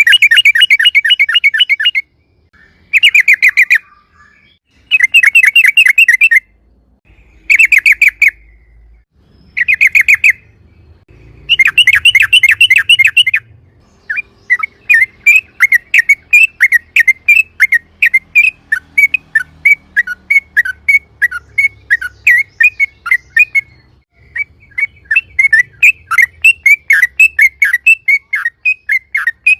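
Yellow-vented bulbul (trucukan) singing loudly in rapid rolling chatter. The first half comes in short bursts of a second or two with brief pauses between them. From about halfway it runs into a long continuous string of quick notes, with one short break near the end.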